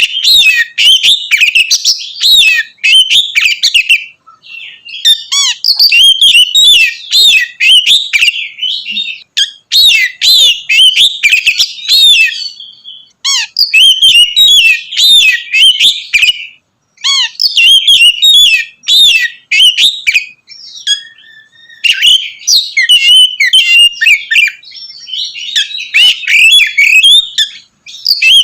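Oriental magpie-robin (kacer) singing loudly in full song: rapid, varied whistles and chattering notes in bursts of a few seconds, with short pauses between.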